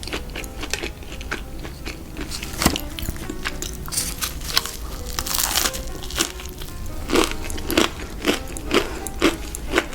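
Biting into crunchy fried food and chewing it, with crisp crunches that come about twice a second in the second half, over soft background music.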